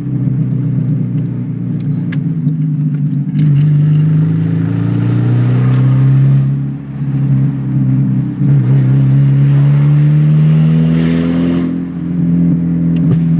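Mazda 323 four-cylinder engine with its mufflers removed, running loud under way: the note climbs under throttle, falls back sharply twice, and climbs again, with occasional sharp clicks and crackles.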